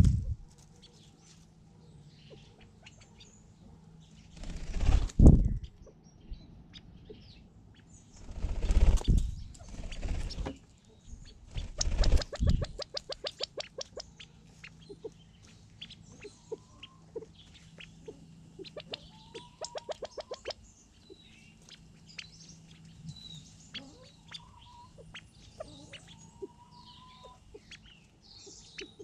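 California quail flying in: three loud whirs of wings about 5, 9 and 12 seconds in, the last breaking into a run of rapid wingbeats. Between and after them come soft scattered ticks and a few short calls.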